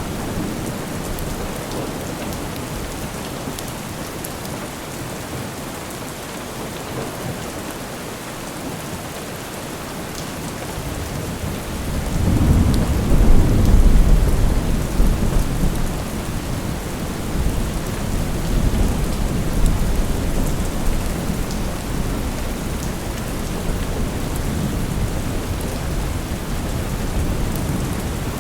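Steady rain falling, with a long low roll of thunder building about twelve seconds in, loudest a couple of seconds later, then rumbling on more softly for several seconds.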